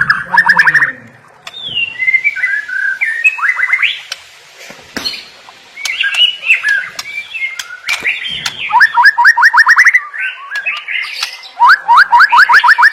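White-rumped shama (murai batu) singing a loud, varied song: fluting whistled phrases broken by three runs of fast repeated rising notes, about ten a second.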